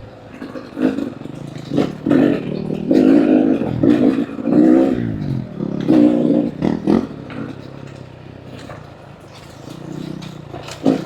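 Two-stroke dirt bike engine revving in repeated bursts, pitch rising and falling, with sharp knocks and clatter mixed in. It drops to a lower, steadier running after about seven seconds and picks up again near the end.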